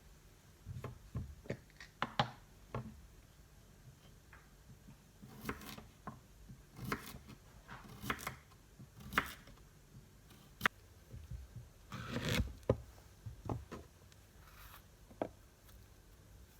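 Kitchen knife cutting cucumber and banana on a cutting board: irregular knocks of the blade hitting the board, with a few short scraping swishes.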